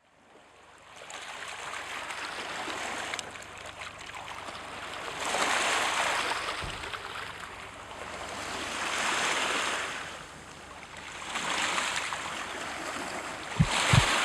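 Sea waves washing in at the shore, swelling and falling back about every three seconds, with a few short low thumps near the end.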